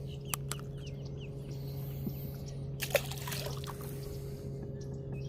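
Water splashing briefly about three seconds in, over a steady low hum, with two sharp clicks about half a second in.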